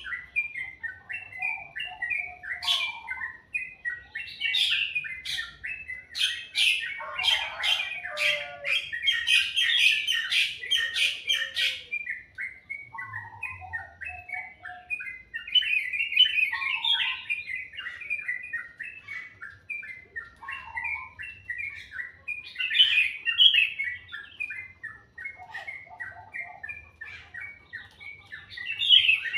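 Songbirds singing continuously: a dense stream of rapid, high chirps and trills, with lower whistled phrases now and then, and a burst of sharp, loud notes in the first third.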